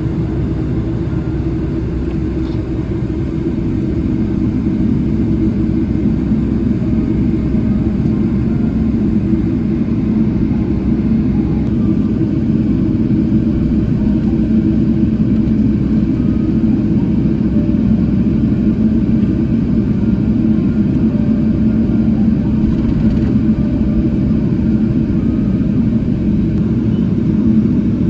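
Steady low rumble in the cabin of a Boeing 777-300ER taxiing after landing, with its GE90 engines at idle. It grows a little louder a few seconds in.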